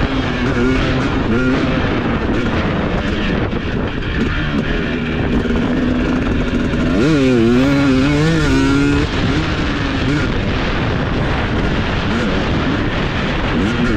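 Husqvarna TC250 motocross bike engine running on the throttle, its pitch rising and falling as the revs change, with a sharp climb in revs about seven seconds in.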